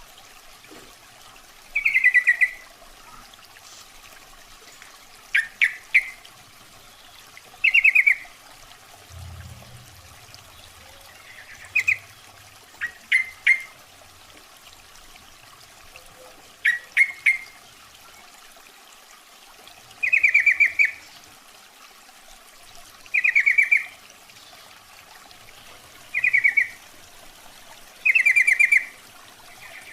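Sooty-headed bulbul (trucukan) giving short, bubbly call phrases, repeated about every two to three seconds over a faint steady hiss. This is a lure call said to be a female calling a male.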